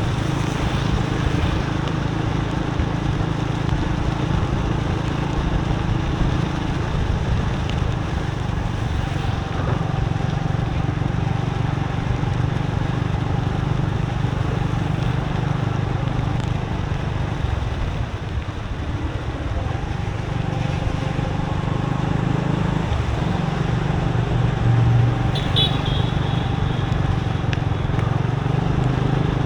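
Motorbike engine running steadily while riding, over the hiss of rain and tyres on a wet road. About 25 seconds in comes a short high-pitched tone.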